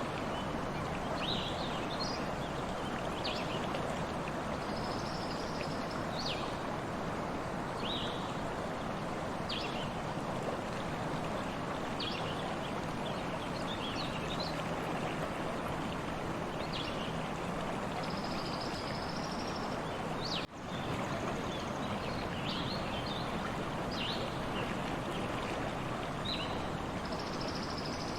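Stream water flowing steadily, with birds chirping in short calls every second or two over it. The sound drops out briefly about two-thirds of the way through.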